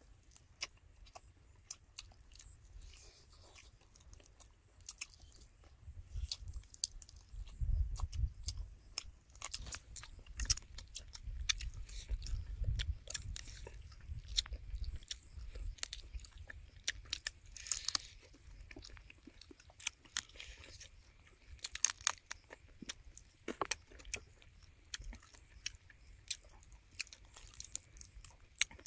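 Close-miked chewing and crunching of whole deep-fried quail, with many sharp crackles as the crisp fried skin and meat are bitten and torn apart by hand.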